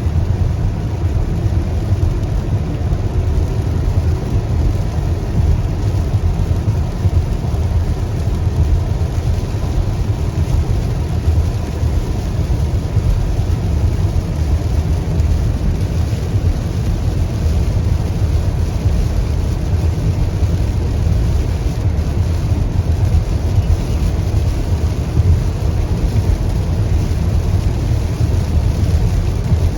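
Steady low rumble of a car driving, heard from inside the cabin, with a fainter hiss of rain.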